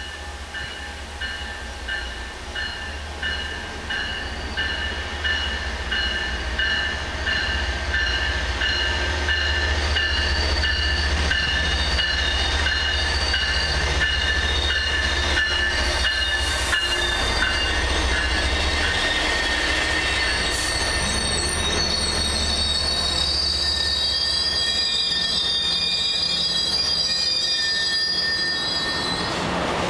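MBTA commuter rail train led by an MPI HSP46 diesel locomotive pulling into a station: the diesel rumble grows as it nears, a bell rings in a steady rhythm through the first half, and high wheel and brake squeal sets in from about twenty seconds in as it slows along the platform.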